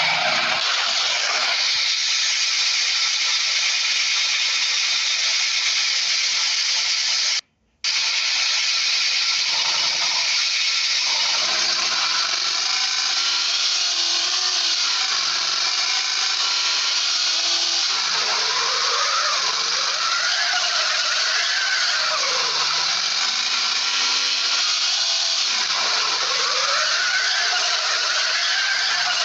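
A power tool running under load: a steady, hissing, high-pitched noise whose pitch wavers up and down in the second half. It breaks off for an instant about seven seconds in.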